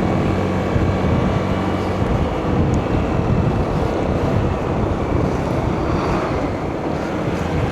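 Wind rushing over the microphone of a moving motorcycle, with a steady low engine hum that fades into the wind noise about two seconds in.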